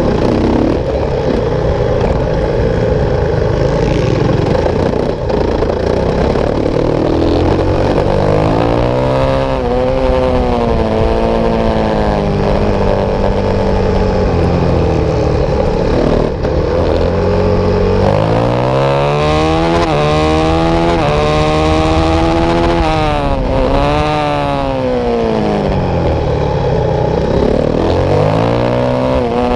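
Supermotard motorcycle engine heard from on board at racing speed, revving up through the gears and dropping back off the throttle several times: repeated rising whines under acceleration followed by falling pitch into corners. The first several seconds are rougher and noisier, over the dirt section.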